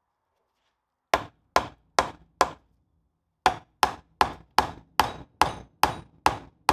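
Hand hammer blows striking part of a Land Rover swivel housing assembly: four evenly spaced blows, a short pause, then a steadier run of about nine more.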